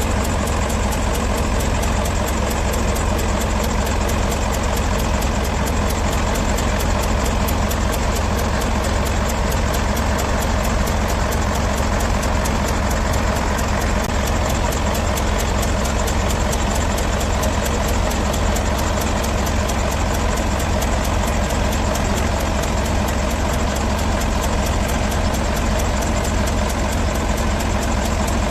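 V10 engine in a Fordson Super Major tractor idling steadily, with no revving.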